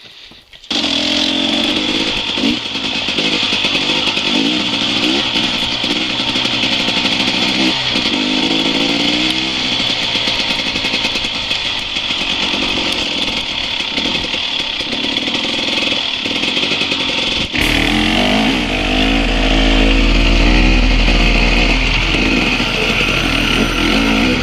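Enduro dirt bike's engine running and revving up and down while it is ridden over rough, rocky ground, heard close from the on-board camera. It comes in suddenly just under a second in. From about two-thirds of the way through, a strong deep rumble runs under the engine.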